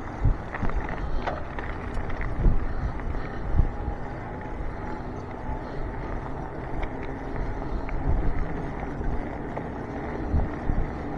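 Wind buffeting the microphone during an electric bike ride, over a steady rushing noise from riding, with several low gusty thumps.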